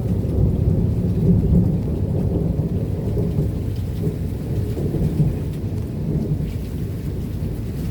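A long roll of thunder, rumbling steadily and low throughout, with rain falling.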